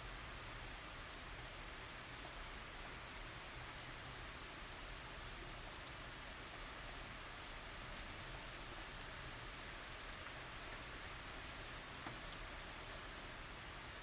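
Steady tropical rain falling on surfaces, an even hiss with many small scattered drop ticks.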